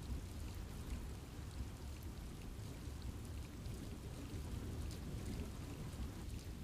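Steady rain falling in a forest, a low continuous wash with scattered individual drops ticking throughout.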